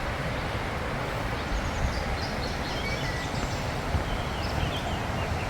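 Steady rushing noise with a low rumble, with a few faint bird chirps about a third of the way in.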